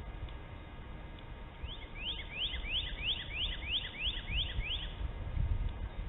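A bird calling: a rapid run of about eleven rising whistled notes, roughly three a second, starting about two seconds in and lasting about three seconds.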